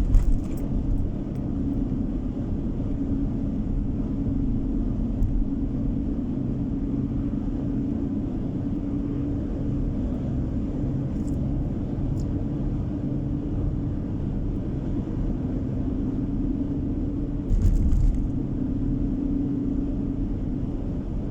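Steady road and engine drone of a car driving, heard from inside the cabin, with a low hum throughout. A brief louder low bump comes near the end.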